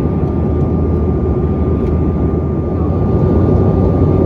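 Steady cabin noise inside a regional airliner: a loud low rumble of engines and airflow with a thin, steady whine above it.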